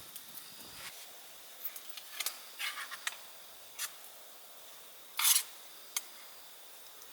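Scattered short rustles and sharp clicks over a faint steady hiss, with the loudest a brief scrape a little past halfway.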